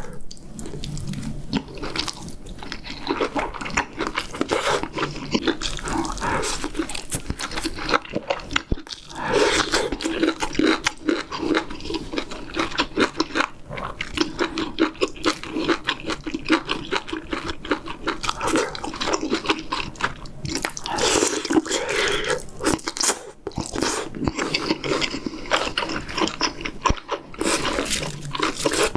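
Close-miked chewing and biting as tender pork back ribs braised in kimchi stew are pulled off the bone and eaten with rice, a continuous run of crackly mouth sounds.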